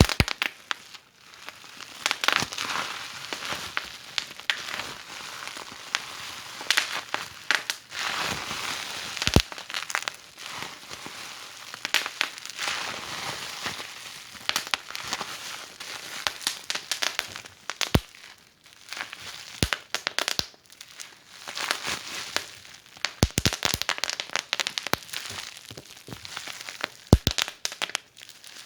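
Wood fire in a fireplace crackling, with a steady hiss and irregular sharp pops, a few of them louder.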